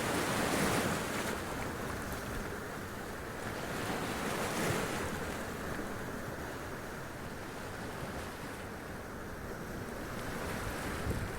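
Sea waves washing up onto rocks, the surf swelling about a second in and again around the middle, over a steady rush of water and wind.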